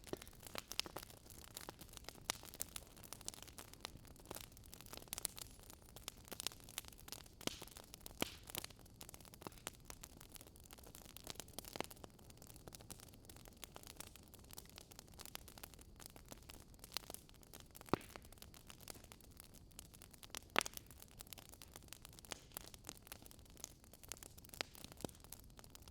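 Wood fire crackling softly: irregular sharp pops and snaps over a low steady hiss, with a few louder snaps in the second half.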